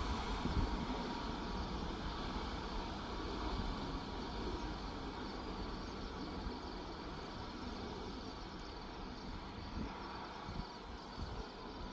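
Airliner engine noise: a steady rushing with a faint whine, slowly fading away. Wind gusts buffet the microphone.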